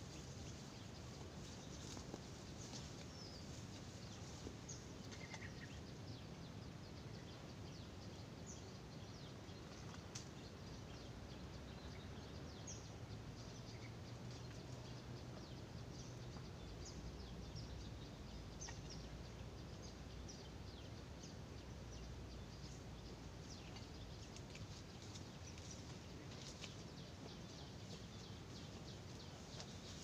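Small birds chirping now and then in short, high notes over a steady hiss of open-air background noise.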